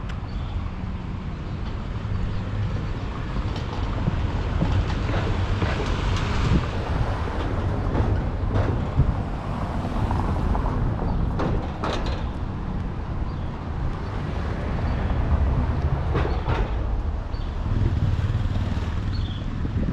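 Motor vehicle rumble and street traffic noise, with a few sharp knocks in between.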